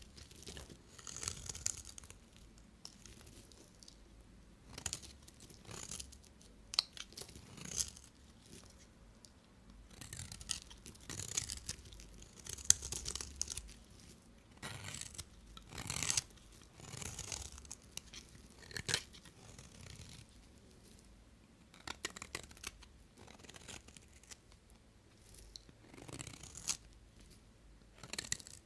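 Knife cutting through bars of soap: short, crisp strokes at an uneven pace, one every second or two.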